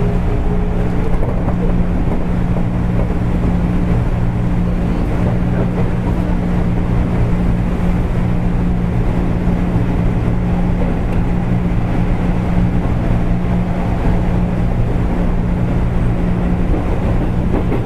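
JR East 205 series electric train running between stations, heard from inside the car at its end: a steady loud rumble of wheels on rail with a constant low hum. A faint rising whine fades out about a second in.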